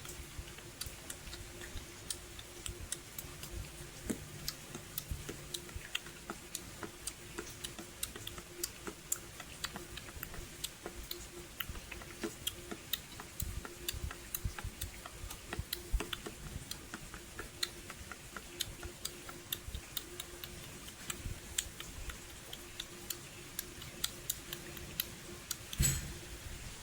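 Raindrops falling in light rain and ticking irregularly on a hard surface, several sharp drips a second, over a faint steady hum. There is one louder brief thump near the end.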